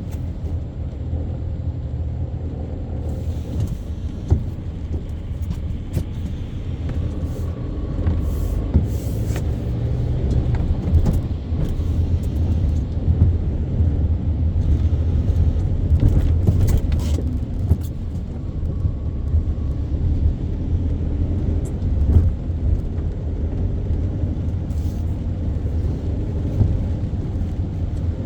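A car driving in traffic: a steady low rumble of engine and road noise, with a few brief clicks.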